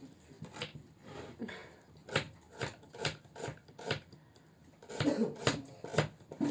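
Kitchen knife chopping onion on a cutting board: a run of short, sharp chops, roughly two a second.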